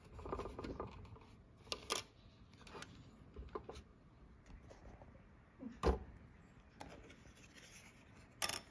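Light handling noises from a plastic scale model truck being turned and moved: faint rubbing with scattered small clicks, and a couple of sharper knocks about six seconds in and near the end.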